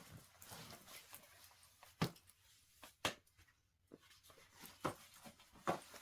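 Handling noises from someone moving about and trying on clothes: faint rustling with about four short, sharp knocks and clicks spread through it.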